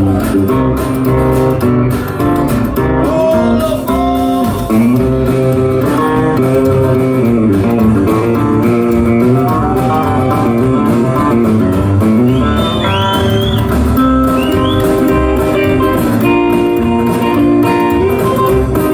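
Live band playing an instrumental break over a steady beat, with a guitar lead playing bent, sliding notes.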